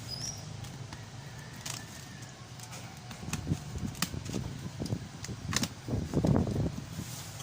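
Scattered clicks and knocks of plastic parts being handled while unpacking a pressure washer, with a few heavier bumps about six seconds in.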